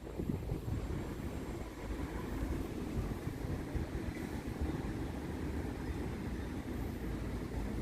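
Strong wind buffeting the microphone: a low, fluctuating rush with no letup.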